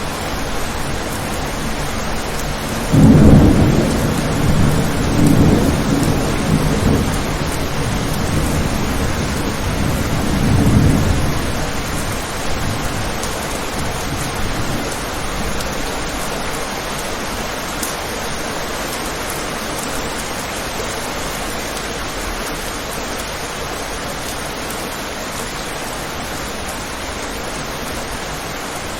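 Steady rain falling on a window, with a clap of thunder about three seconds in that rumbles on in swells for several seconds before dying away.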